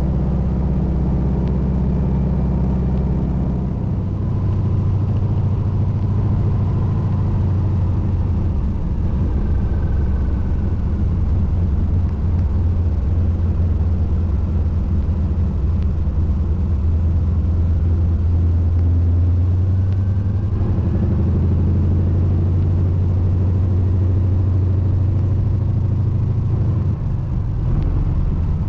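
Small floatplane's piston engine and propeller droning steadily, heard from inside the cabin, with a shift in engine pitch about four seconds in and smaller changes later on.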